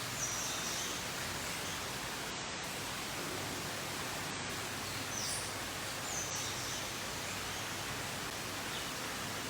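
Steady ambient hiss of an indoor rainforest exhibit, with a few short, high bird chirps, each a quick downward sweep, scattered through it.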